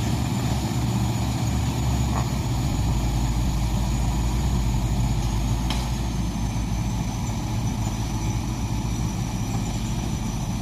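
Heavy diesel engine running steadily with a low rumble, and a thin high whine above it that sinks slightly in pitch.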